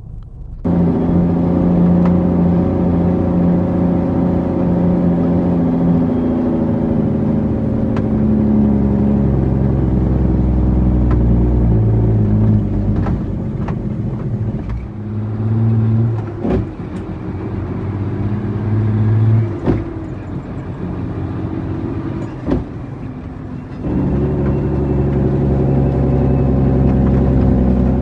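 Car engine running while driving, its pitch rising and falling with speed, with several short sharp knocks along the way.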